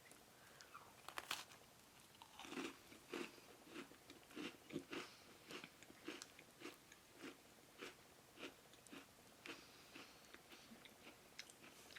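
Faint close-up chewing of a gingerbread cheesecake sandwich cookie, with a sharper crunch about a second in, then steady chews about two a second.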